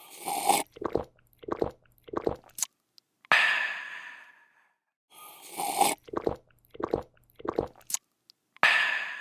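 A person slurping a drink, swallowing it in three or four quick gulps, then letting out a long refreshed 'aah' that fades away. The sequence plays twice, the second 'aah' starting near the end.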